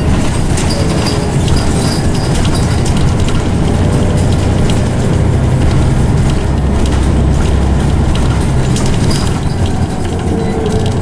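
Scania OmniCity single-deck bus under way, heard from inside the cabin: a loud steady drone from the engine and ZF automatic gearbox, with short rattles from the bodywork and a faint gearbox whine that falls slightly near the end.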